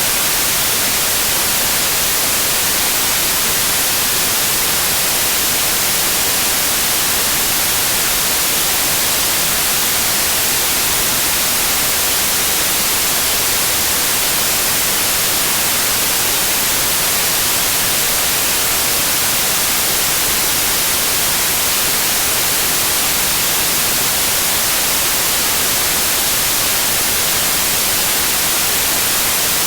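Steady white noise: an even hiss with no rhythm, pitch or change.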